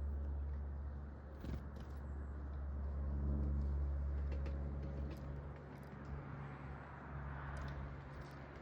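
Low engine rumble of a motor vehicle running in the background, swelling a few seconds in and then fading, with a few short bird chirps over it.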